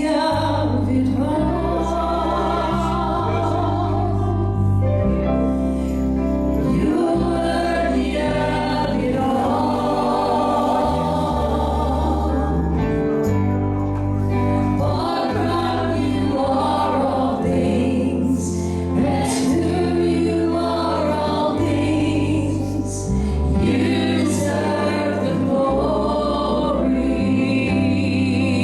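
Gospel choir singing with a band, a steady bass line under the voices.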